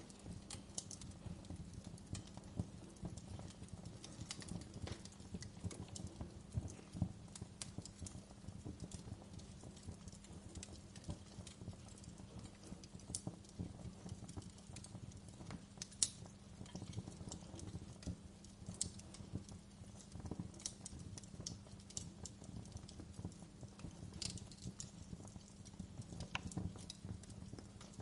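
Wood fire burning in a fireplace, crackling with irregular pops over a low, steady rumble. The sharpest pop comes about halfway through.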